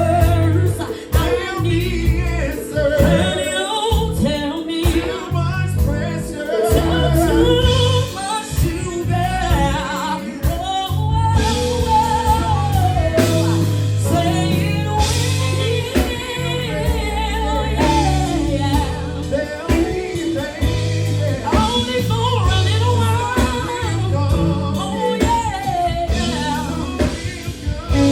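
A woman singing a slow soul ballad live, with wavering vibrato and melodic runs, over backing music with heavy bass and drums.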